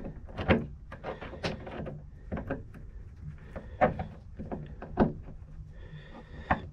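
A string of irregular sharp clicks and knocks as small parts are handled, putting a little hose clip onto a diesel heater's fuel pipe.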